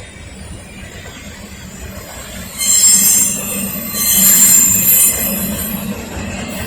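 Freight train of empty intermodal rail cars rolling past with a steady low rumble. Its wheels squeal loudly twice, once a little before the midpoint and again for about a second just after it.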